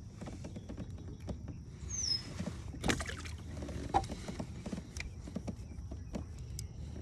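Fishing tackle being handled: scattered short clicks and knocks over a low steady rumble, with one short, high, falling chirp about two seconds in.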